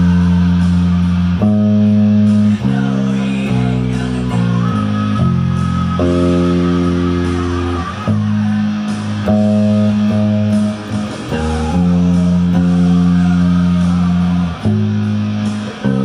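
Guitar music with bass: held chords that change every one to two seconds in a steady pattern.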